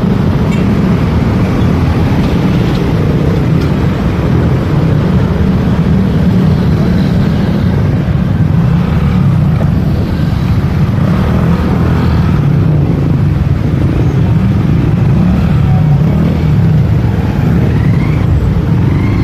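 Steady engine, road and wind noise from a motorcycle being ridden through traffic, heard from the rider's position.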